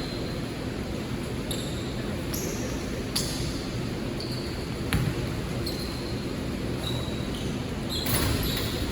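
Basketball game sounds in a gym: a ball bouncing, with a few sharp thuds about three and five seconds in, and short high squeaks of sneakers on the court over steady hall noise.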